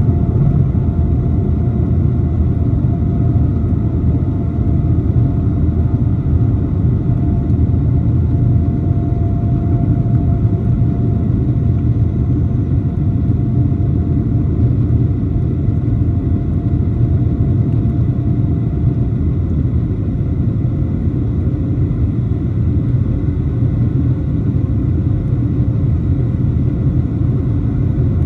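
Steady low rumble of cabin noise inside a Boeing 757-200, with a few faint steady tones over it.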